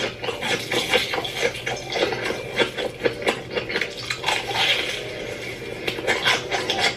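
Close-miked eating sounds: crisp, irregular crunching and chewing as a Hot Cheeto-crusted sausage is bitten and chewed, in mukbang ASMR style.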